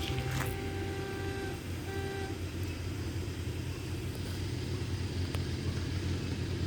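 Diesel train's horn sounding one long blast and then a short one, over the steady low rumble of the running train.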